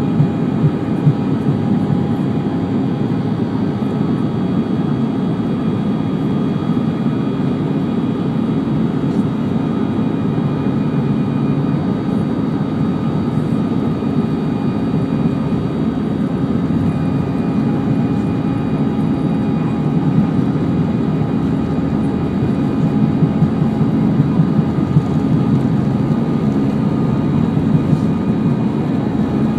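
Airbus A319 cabin noise: the steady drone of the jet engines and airflow, with a few faint steady whining tones over it.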